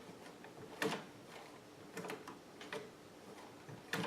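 Scattered small clicks and knocks from a vintage sewing machine being handled by hand, with no motor running. The loudest click comes about a second in, and a few lighter ones follow.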